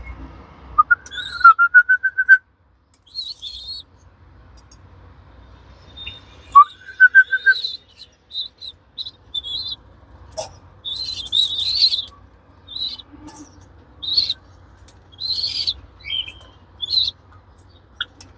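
Young pigeon (squab) peeping in short, high squeaky cheeps, coming thickly in the second half. Twice, near the start and about six seconds in, a lower call rises and then runs on as a quick even trill.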